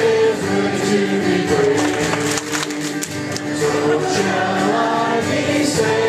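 A group of voices singing a worship song, with long held notes.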